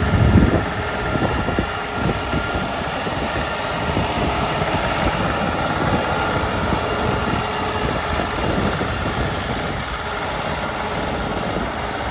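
New Holland Boomer 35 compact tractor's diesel engine running steadily, with a brief louder low thump right at the start.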